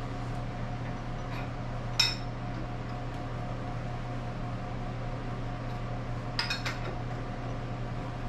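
Steel wrench clinking against a heavy milling machine as its head is cranked back by hand: one sharp clink about two seconds in and a quick cluster of clinks near the end, over a steady low hum.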